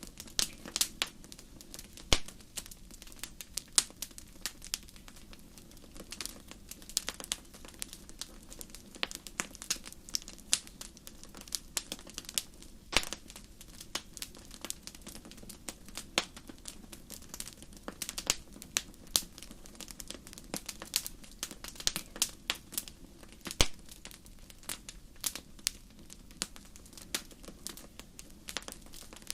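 Wood fire crackling in a fireplace: a steady low hiss with irregular sharp pops and snaps from the burning logs, some much louder than others.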